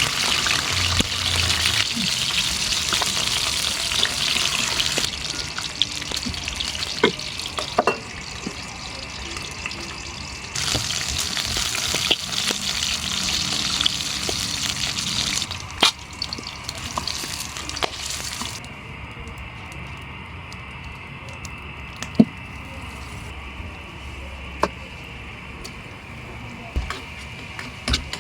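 Tap water running into a sink in two spells of about five seconds each, with scattered clicks and knocks of handling between and after them.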